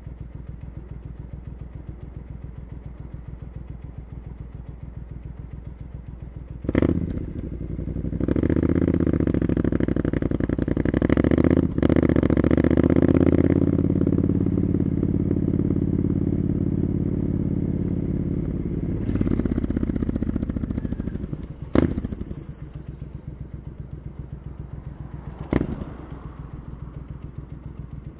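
Triumph Scrambler 900's parallel-twin engine through Arrow exhaust pipes, idling with an even low pulse, then pulling away and accelerating through a gear change before easing back to idle. Sharp clunks come a few times, once just before it pulls away and twice after it settles back to idle.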